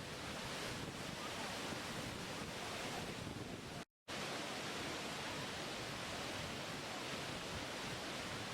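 Steady, even rush of falling water from a waterfall. It cuts out completely for a split second about four seconds in, then carries on unchanged.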